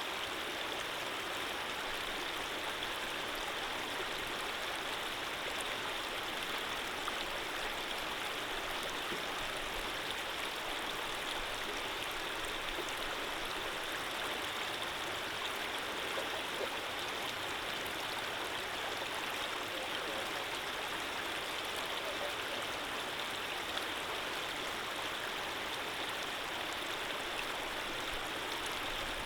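Running water of a gentle stream, flowing steadily with an even rushing sound that does not change.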